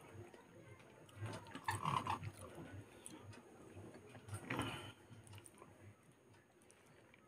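Soft chewing of someone eating rice and curry by hand, with louder mouthfuls about a second and a half and again about four and a half seconds in.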